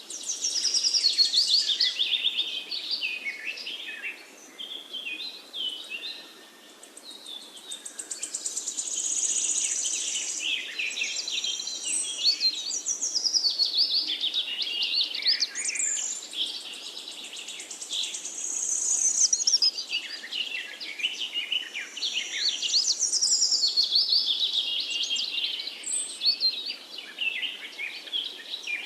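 Songbirds singing: long bouts of rapid, varied high chirps and trills that rise and fall in loudness, dipping briefly a few times.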